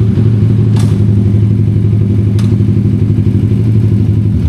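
Motorcycle engine idling steadily, echoing in a parking garage.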